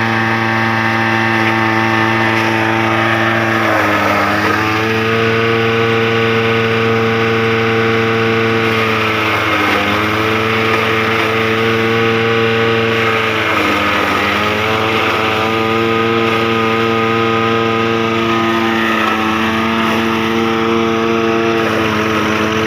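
Tractor-driven JF-60 Max silage chopper running under the tractor's power, a steady loud engine-and-cutter hum. Its pitch sags briefly and recovers about four times.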